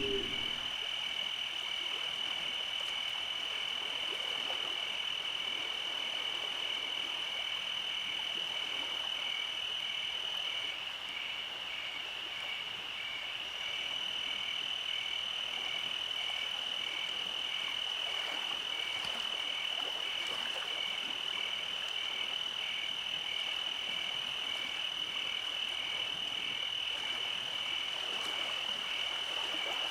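Night chorus of calling frogs: a steady high trill with a regularly pulsing call just beneath it, unchanging throughout. A louder low sound breaks off just at the start.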